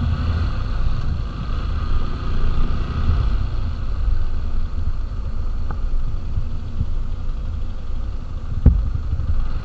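TVS Apache RTR 160 4V's single-cylinder four-stroke engine running as the motorcycle rides along, under a fluctuating low rumble of wind on the microphone. A sharp thump comes about nine seconds in.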